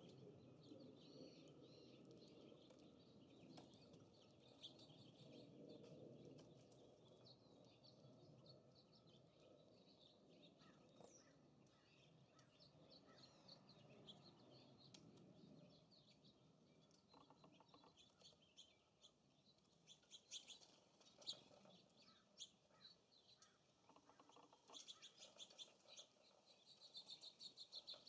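Faint songbird chirps and calls at a feeder over a low wind rumble that eases off about halfway through. In the last third come sharp clicks and quick runs of them.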